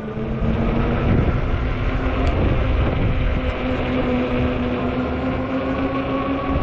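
Ecotric 48-volt fat-tire e-bike's hub motor whining, its pitch rising slowly as the bike picks up speed, over a heavy rumble of wind on the microphone.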